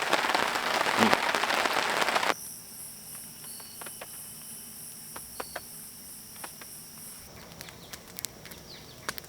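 Steady rain hissing and pattering for about two seconds, then it cuts off abruptly to a quiet night background of insects trilling in a high, pulsing chorus, with scattered soft ticks of dripping water.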